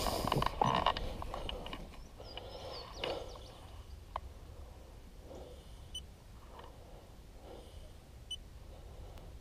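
Kayak paddle dipping in the water in soft, even strokes about once a second, after a brief clatter against the kayak in the first second.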